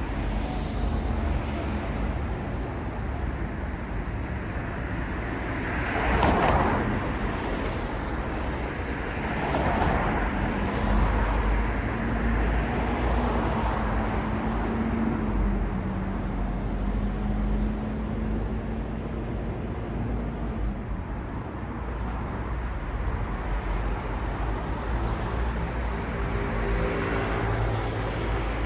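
City street traffic: a steady low rumble of cars, with one vehicle passing louder about six seconds in and another a few seconds later, and an engine humming steadily through the middle.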